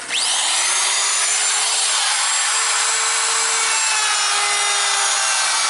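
Electric power tool spinning up with a fast rising whine, then running steadily as it cuts a shoulder (rabbet) along the edge of a wooden filler board.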